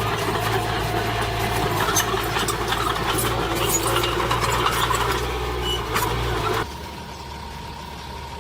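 Diesel engine of heavy earthmoving machinery running steadily, with scattered sharp clicks over it. About two-thirds of the way through it cuts off abruptly to a quieter engine hum with a faint steady whine.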